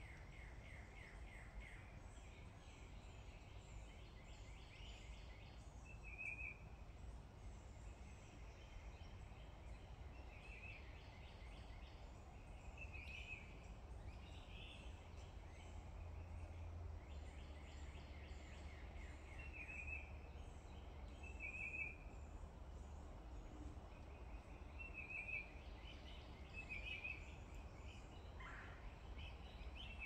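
Songbirds singing faintly: short high trilled phrases every few seconds, over a steady low rumble.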